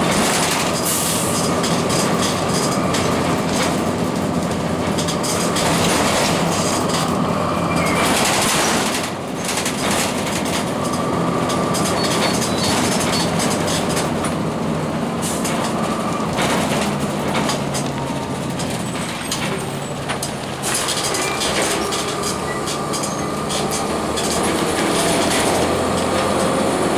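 2002 Blue Bird CS transit bus under way: its Cummins ISC diesel and Allison B400R automatic transmission run steadily under road noise and body rattles. The sound dips briefly about nine seconds in and again around twenty seconds.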